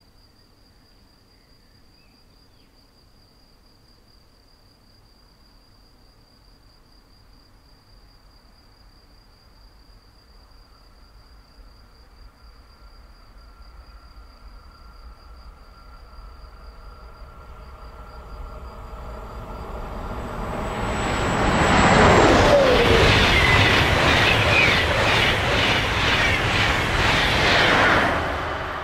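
SBB electric passenger train approaching at high speed. Its hum and a steady whine grow louder for about twenty seconds. Then it passes close and loud for about seven seconds, with a rush of wheels and air and a rapid, even clatter of passing axles, and falls off near the end.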